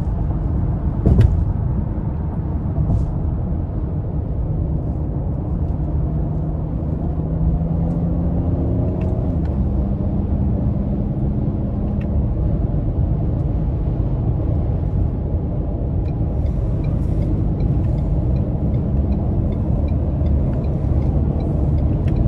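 Cabin sound of a 2024 Ford Edge ST's 2.7-litre twin-turbo V6 driving along, a steady engine drone under road and tyre noise. About six seconds in the engine note climbs for a few seconds, then holds steady. A single knock about a second in is the loudest moment, and faint regular ticking comes in near the end.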